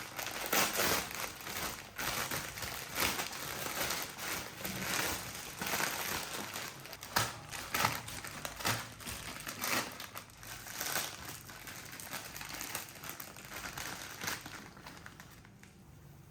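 Plastic instant-ramen packets crinkling and rustling as they are handled and torn open, with irregular sharp crackles; the rustling dies down near the end.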